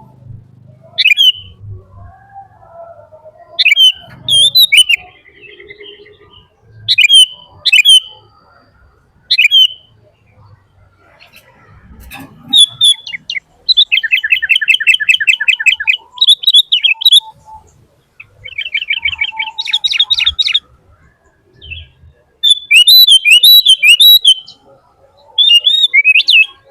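A bird chirping loudly and close by: sharp separate chirps at first, then rapid trills in the middle and a dense run of chirps near the end.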